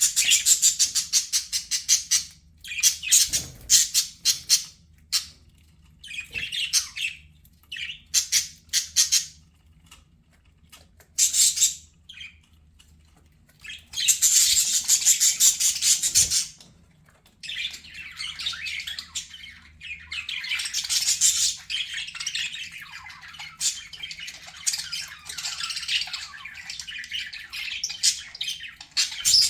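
Budgerigars chattering and squawking in bursts of rapid high chirps with short pauses between, running into a longer unbroken stretch of warbling chatter in the second half.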